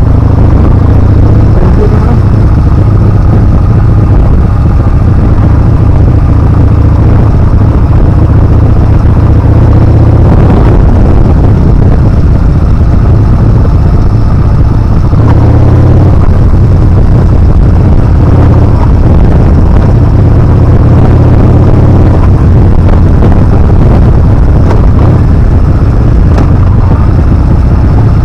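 Yamaha Bolt's air-cooled V-twin running at speed under loud wind rumble on the microphone, the engine note rising and falling a few times with throttle and speed changes.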